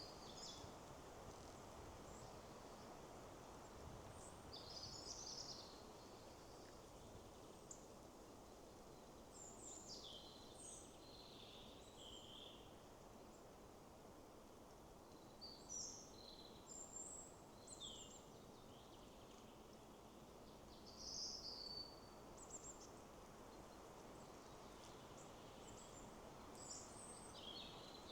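Forest birds singing in short scattered chirps and brief phrases every few seconds over a steady, faint rush of wind in the trees.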